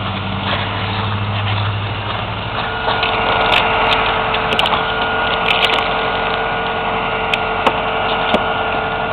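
1994 Toyota Camry's 2.2-litre four-cylinder idling on a cold start, with the defroster blower running. Several sharp clicks and knocks in the second half come from the hood release being worked, the hood frozen shut.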